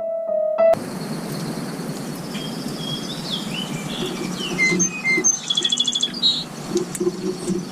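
Several small birds calling and chirping with short whistled notes over a steady outdoor rush, with a fast trill of rapidly repeated notes about five and a half seconds in. A held piano note at the very start cuts off abruptly under a second in.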